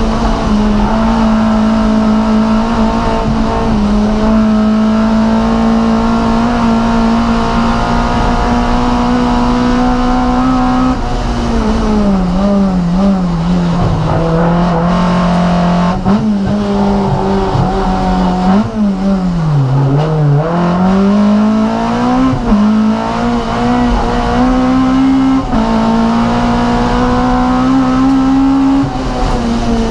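Race car engine heard from inside the cockpit, running hard at high revs and holding steady for about the first ten seconds. The revs then fall and waver, dip lowest about two-thirds of the way through, climb steadily back up, and drop again near the end.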